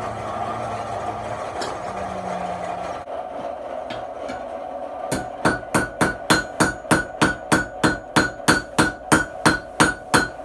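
Steady forge noise, then from about five seconds in a fast, even run of hammer blows on hot steel over the anvil, about three to four a second, each with a short ring. This is light tapping at welding heat to set the forge weld in a Damascus billet.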